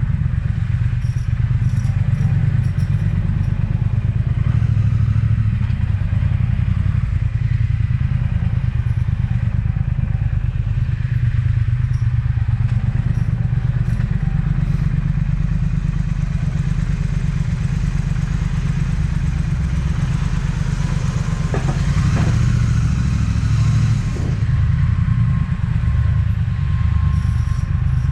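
Triumph Speed Twin's parallel-twin engine running steadily as the motorcycle is ridden, a continuous low drone.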